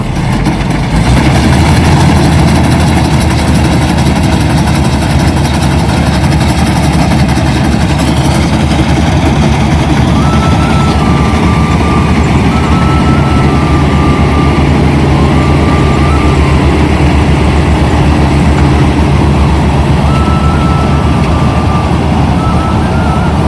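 Kubota combine harvester running steadily at close range: a loud, even engine note with the clatter of the machine under it.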